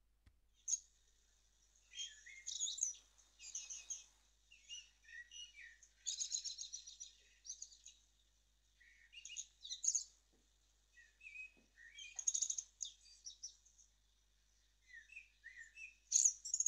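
A songbird singing outdoors in short, quick twittering phrases of chirps and gliding notes, with brief pauses between the phrases.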